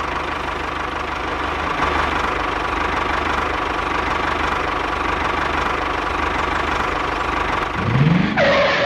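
Tractor-like engine drone running steadily, with a deep rumble, a steady whine and a rising sweep in pitch near the end.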